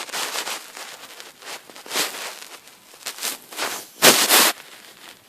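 A coloured drawing pen scribbling across paper in irregular scratchy strokes, with the loudest stroke about four seconds in.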